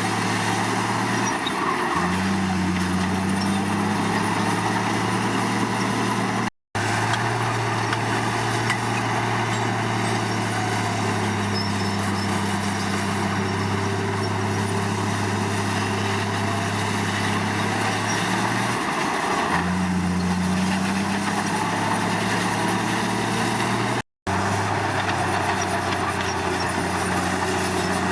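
Komatsu D53 crawler bulldozer's diesel engine working steadily under load, its pitch and load shifting about two seconds in and again near the end, with the clatter of the machine over it. The sound cuts out completely twice for an instant.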